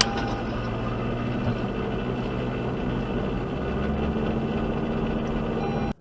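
Steady low hum of a car's engine and road noise heard from inside the vehicle, cutting off abruptly near the end.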